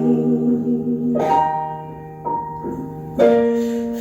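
Woman's voice, layered with her own harmony, holding the sung word "home" over instrumental accompaniment. The accompaniment then plays on alone, with a new chord struck about a second in and another near the end.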